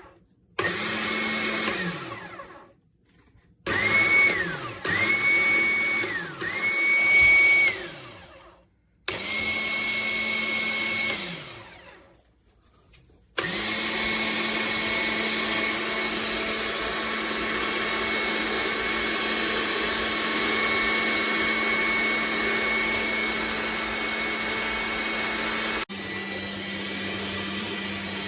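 Electric cold-press juicer's motor whining in several short on-off runs, its pitch sliding down each time it stops, then running steadily for the second half. It now turns at full speed after having run slowly and smoked.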